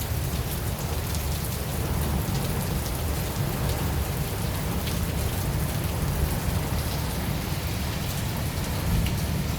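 Steady rain during a thunderstorm, with many close drops ticking over an even hiss and a low rumble underneath.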